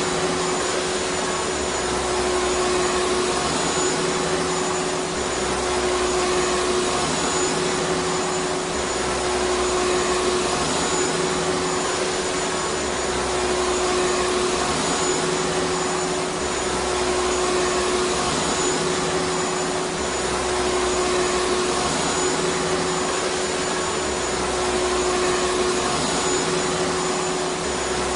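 Vacuum cleaner motor running continuously: a steady rushing noise with a constant humming whine, and a slight rise and fall in the low end every few seconds.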